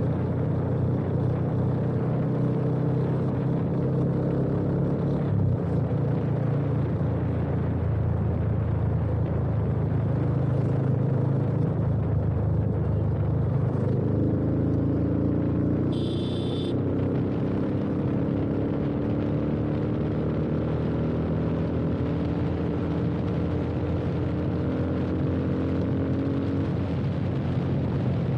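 Yamaha FZ25's single-cylinder engine running through an aftermarket full-system exhaust with a slip-on muffler while riding. The engine note holds steady, then from about halfway rises slowly as the bike accelerates. A short high-pitched beep comes about sixteen seconds in.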